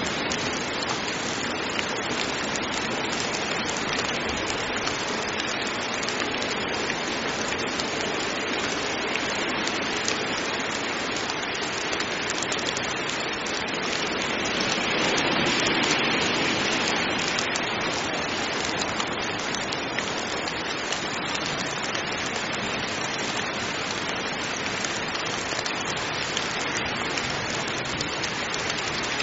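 Heavy rain falling steadily as a dense, even hiss, swelling a little louder about halfway through.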